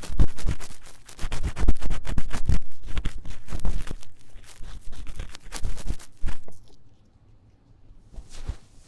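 Ear-cleaning tool scratching fast and hard inside the ear of a 3Dio binaural microphone, in rapid back-and-forth strokes. The strokes stop about six and a half seconds in, and a softer rustle follows near the end.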